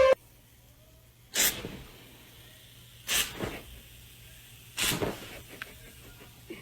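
An animal giving three short, sharp hisses, a little under two seconds apart.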